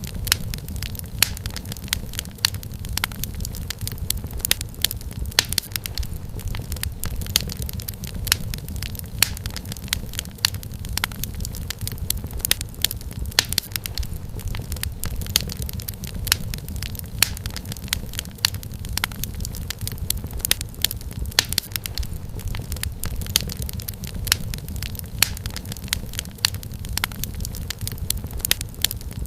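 Wood fire crackling in a fireplace: many sharp pops and snaps over a steady low rumble of the flames.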